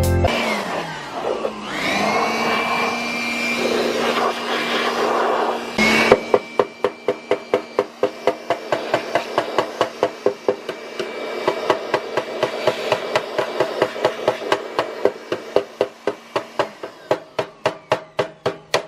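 Mechanical whirring that dips and rises in pitch, then a fast, even knocking, about three knocks a second, over a steady hum; the hum stops near the end while the knocking goes on.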